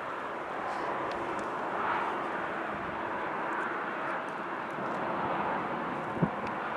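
Jet airliner engines running steadily as the aircraft taxis, a continuous rushing noise. A short knock about six seconds in.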